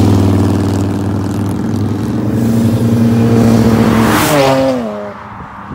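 BMW 335i's turbocharged straight-six with catless downpipes, pulling under acceleration as the car drives by. The engine note holds and rises slightly, then drops in pitch as the car passes about four seconds in, and fades quickly.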